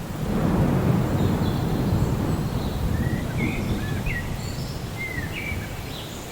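A long, low rumble of thunder swells just after the start and slowly dies away. Birds give short chirps and gliding whistled calls from about halfway through.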